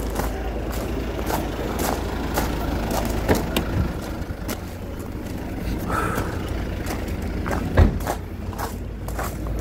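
A vehicle engine runs with a steady low rumble, with scattered knocks and clicks and a louder thud nearly eight seconds in.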